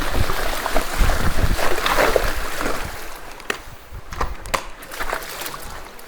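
Water splashing and sloshing, broken by irregular sharp clicks and knocks, louder in the first half and quieter from about halfway.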